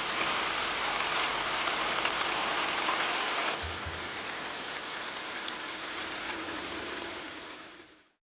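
Steady rain falling, an even hiss with fine drop patter. It drops in level about three and a half seconds in and fades out near the end.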